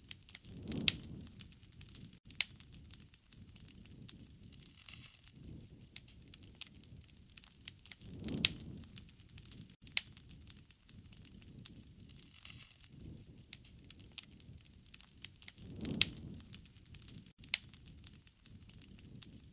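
Wood fire burning, with many sharp crackles and pops and a soft low whoosh of flame about every seven seconds.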